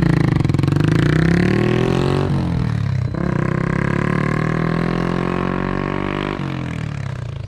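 Yamaha Sniper 150's single-cylinder four-stroke engine sounding through a ProLiner racing exhaust with the DB killer fitted, pulling hard under acceleration. The pitch climbs and drops sharply with each gear change, about two seconds in, about three seconds in, and again near the end. It is loud even with the silencer in.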